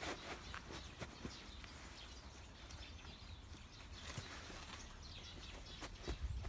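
Faint rustling with scattered small clicks and knocks, and no voice.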